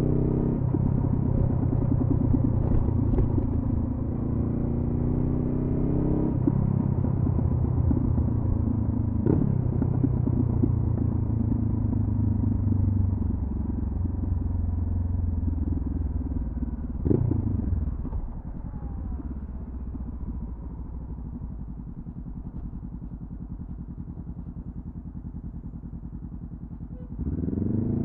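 2014 Honda CB500F's parallel-twin engine running through a Delkevic carbon-fibre slip-on exhaust while riding, under throttle with a few gear changes. Past the middle the throttle closes and the engine settles to a lower, steady note, then revs up again near the end.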